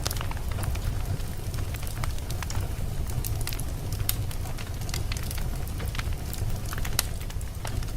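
Wood fire burning in a fireplace, crackling and popping with many sharp irregular pops over a steady low rumble of the flames.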